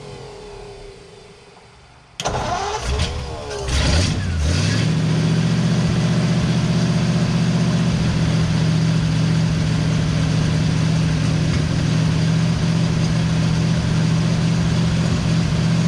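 A 1940 Ford flathead V8 being cranked on the starter; about two seconds in the cranking starts again and the engine catches around four seconds in, then runs steadily at a fast idle. It is an engine with a no-start problem firing up after ignition work.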